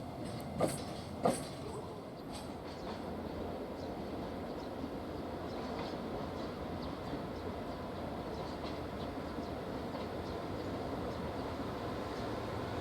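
Freight train running past, a steady rolling rumble of wagons on the rails, with two short sharp sounds from the wheels near the start.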